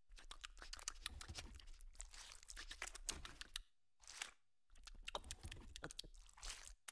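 Crispy fried chicken skin being torn off and chewed: a dense, crackly crunching with a short break a little past halfway.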